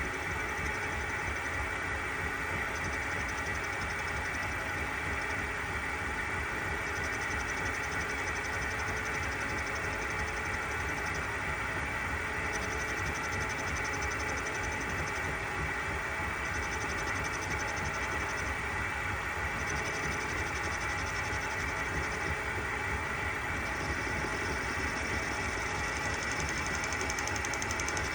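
Metal lathe running steadily while turning down the diameter of a cylinder cap clamped on a mandrel. A higher hiss from the cutting comes and goes several times as the tool makes its passes.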